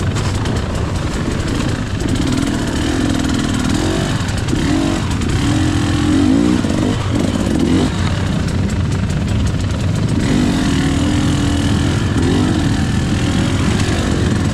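KTM EXC 300 two-stroke enduro engine running under load, its pitch repeatedly rising and falling as the throttle is worked.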